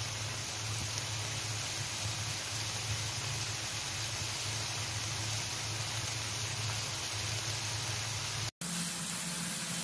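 Pork strips frying with garlic and sliced onion in a pan: a steady sizzle with a low hum underneath, broken by a momentary cut near the end.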